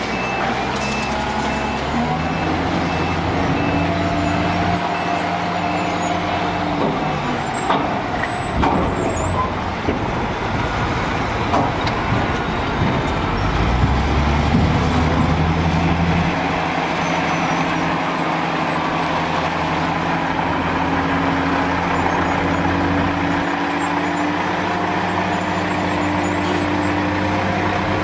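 Heavy work machine's engine running steadily, its pitch stepping up and down as the load and revs change, with a few knocks in the middle. A reversing beeper stops about a second in.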